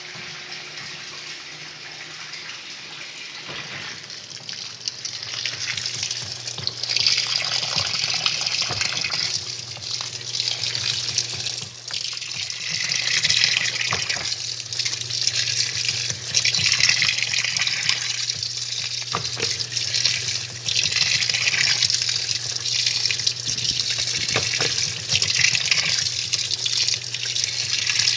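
'Faz tudo' washing machine with water gushing and splashing into its tub over a steady low hum. The water grows louder from about five seconds in.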